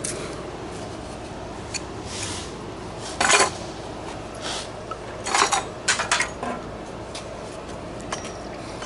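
Metal tools and parts clinking and clattering as they are handled, with one loud clank about three seconds in and a quick run of clinks a couple of seconds later.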